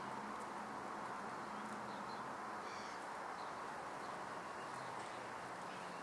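A steady background hiss with a faint low hum, and a few faint short bird chirps about two to three seconds in.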